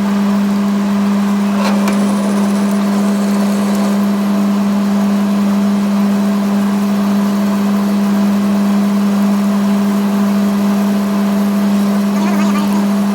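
Steady workshop machine hum: one strong low tone with fainter overtones above it, unchanging throughout, with a couple of faint clicks about two seconds in and near the end.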